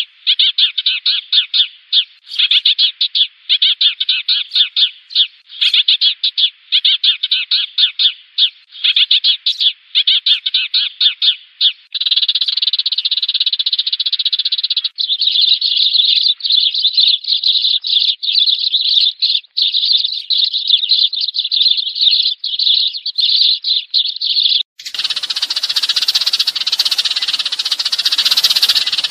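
A flock of sparrows chattering: a dense stream of rapid, high chirps, as in a decoy recording of sparrows calling their flock. About 25 seconds in, a harsher rattling noise that spans nearly all pitches takes over.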